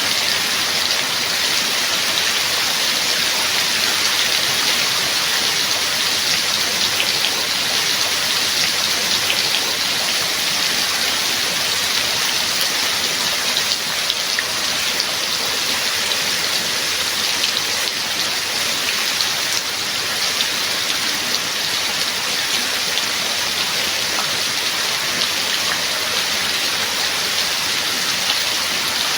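Steady heavy rain falling and pattering on a surface, an even hiss with scattered drop ticks.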